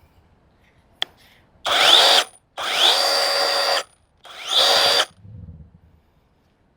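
Small battery-powered electric chainsaw motor triggered three times in short bursts, each spinning up with a rising whine and then running at steady speed; a click comes just before the first. It is being run to check that bar oil is getting through to the chain.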